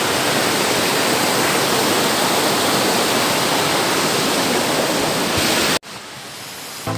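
Rushing water from a forest stream or cascade, a steady, loud rush of white noise. It cuts off suddenly about six seconds in, leaving a much quieter background.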